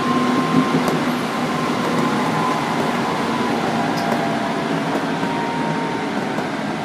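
Tokyu 9000-series electric train heard inside car DeHa 9601 over its bogie: steady rumble of wheels on rail, with faint humming tones from the Hitachi GTO-VVVF traction equipment, a few of them drifting slowly in pitch. This bogie gives off no abnormal noise.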